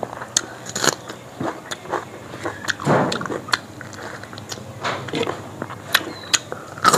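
Close-up eating sounds: a person biting and chewing chicken curry with rice, with many sharp mouth clicks and a louder crunching bite about three seconds in.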